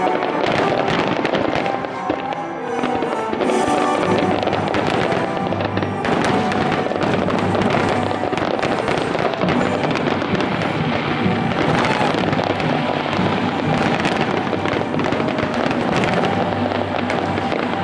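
Aerial fireworks shells bursting in rapid, overlapping succession, a dense barrage that never lets up, with music playing underneath.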